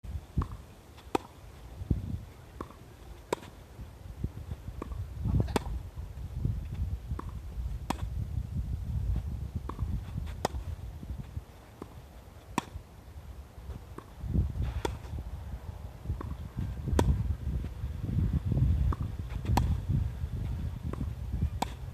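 Tennis balls struck back and forth in a volley-to-groundstroke rally, about one crisp hit a second, alternating a louder and a fainter hit. Strong wind buffets the microphone with a low rumble throughout.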